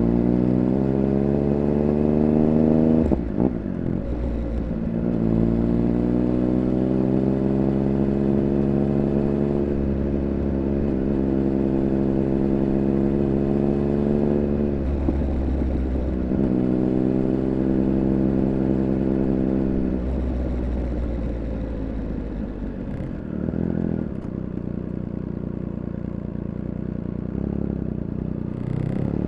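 Triumph Speed Triple 1200 RR's 1160 cc inline three-cylinder engine under way, its pitch climbing under acceleration, cut short by upshifts about three seconds in and again around fifteen seconds, then climbing again. From about twenty seconds it is eased off and runs lower and quieter, picking up again right at the end.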